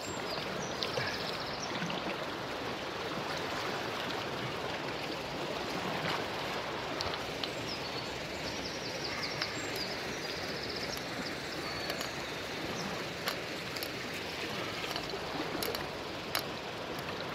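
Fast-flowing river current rushing steadily, with a small bird's high chirping trills about a second in and again midway.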